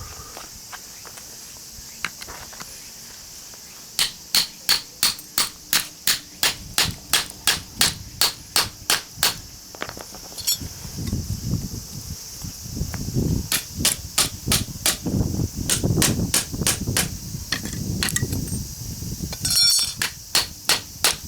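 A hammer striking a chisel set into a small transformer's laminated iron core. After a few quiet seconds comes a regular run of sharp metallic strikes, about three or four a second, then heavier, duller blows and a quick flurry near the end. The chisel is not biting into the core. Insects chirp steadily in the background.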